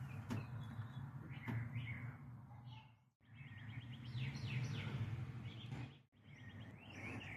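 Birds chirping outdoors over a steady low hum. The sound cuts out to silence briefly twice, about three and six seconds in.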